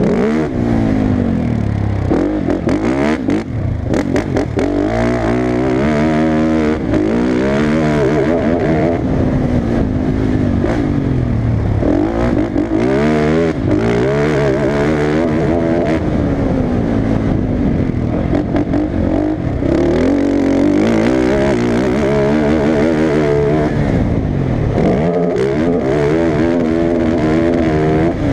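Motocross engine revving hard and easing off over and over, its pitch climbing in steps as it shifts up and falling back as it slows, repeatedly through the stretch.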